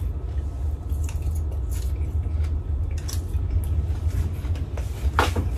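A person chewing a mouthful of concón, crispy rice scraped from the bottom of the pot, with scattered short clicks, over a steady low hum.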